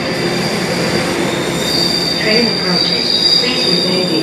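Train rolling through the station with a loud rumble of wheels on rails and a steady high-pitched squeal that grows stronger about two seconds in.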